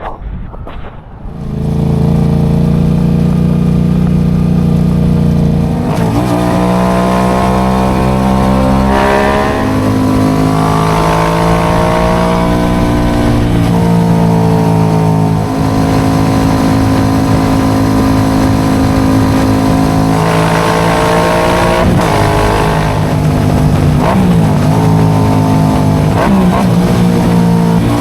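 Yamaha R7's 689 cc parallel-twin engine through an aftermarket M4 exhaust, under way on the road. It swells up about a second and a half in, then the revs rise and drop several times as the rider opens and closes the throttle and changes gear.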